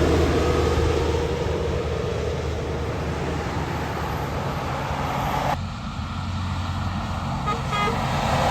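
Heavy truck engine and road noise as a big rig goes by, easing off over the first few seconds. The sound changes abruptly about five and a half seconds in, and a few short tones follow near the end.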